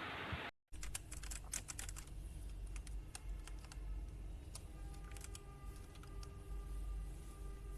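Keys of a DareU EK87 V2 mechanical keyboard being typed on: a quick, irregular run of sharp key clicks.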